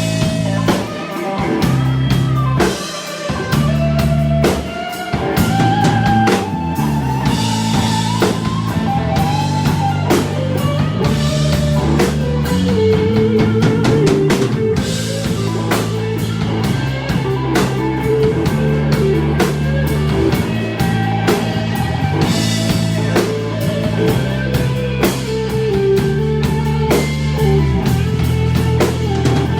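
Live rock band playing an instrumental break: a lead guitar line with bent, gliding notes over a steady bass line and a drum kit with cymbals.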